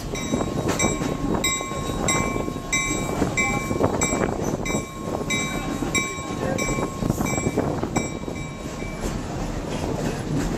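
Excursion train running, heard from an open-air car: a steady rolling rumble with a repeated ringing tone about twice a second that fades out near the end.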